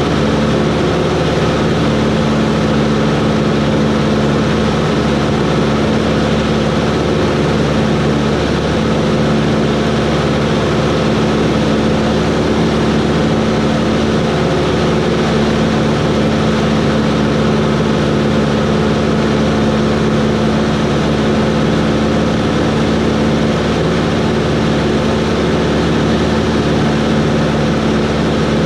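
Cessna 140's flat-four piston engine and propeller running at a steady, unchanging speed.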